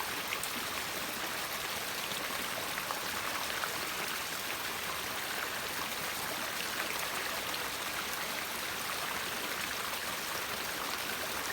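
River water flowing steadily, a continuous rush with many small splashes and droplets.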